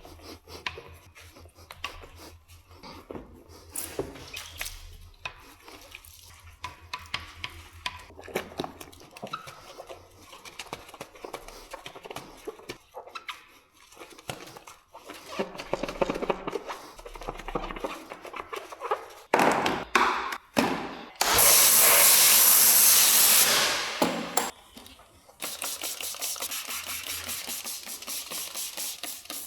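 Car-detailing work: scattered knocks and handling noises, then a loud hiss of spray lasting about three seconds. After that comes rapid, rhythmic back-and-forth scrubbing with a brush or pad.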